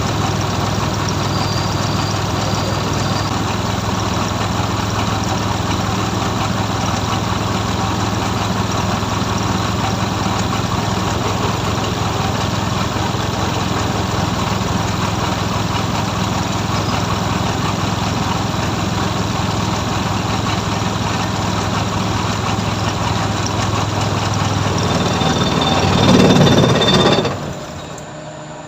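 Suzuki F6A three-cylinder carburettor engine running steadily at idle after a new distributor cap and high-tension wires have been fitted, as a test of its hard-starting fault. Near the end it briefly revs louder, then the sound cuts off suddenly.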